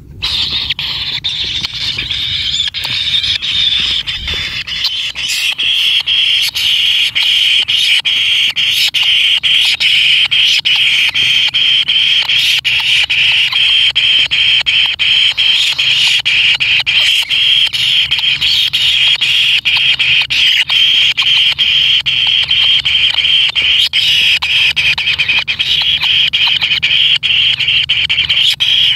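Kingfisher nestlings giving continuous high-pitched rasping begging calls, many overlapping and unbroken.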